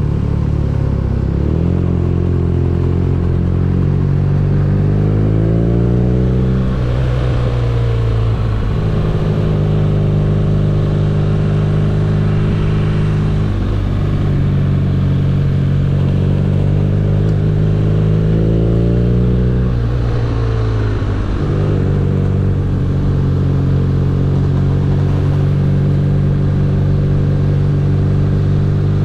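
BMW R nineT's boxer twin engine under way. The revs climb and fall away at two upshifts, about a quarter of the way in and again about two-thirds through, with steady cruising between and after.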